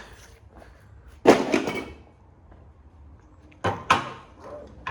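A loud metallic clank about a second in that rings briefly, then two sharper metal knocks near the end: heavy metal parts from a dismantled printer being handled and set down.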